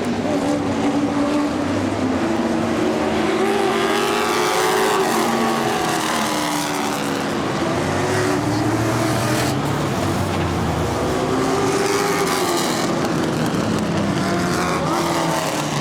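Several street stock race cars running hard on the track, their engines rising and falling in pitch as they pass through the corners and straights.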